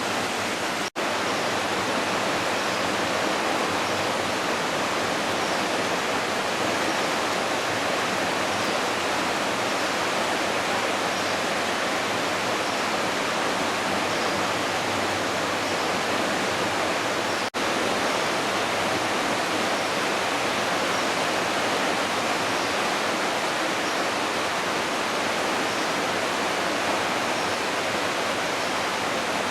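Steady rush of the Smith River running high and fast after heavy rain. The sound drops out for an instant twice, about a second in and again about 17 seconds in.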